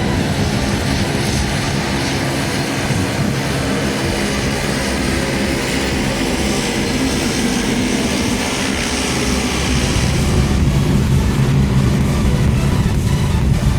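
Military aircraft engines running loud and steady during its take-off, a continuous drone with a hiss over it.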